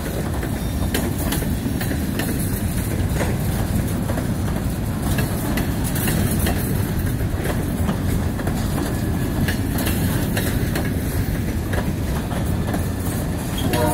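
Covered hopper cars of a freight train rolling past close by: a steady rumble of steel wheels on rail, with frequent sharp clicks.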